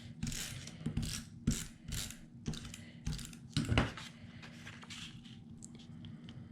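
Paper and cardstock being handled and set down on a table: a series of short rustles and light taps, the loudest about three and a half seconds in, then only a few faint clicks.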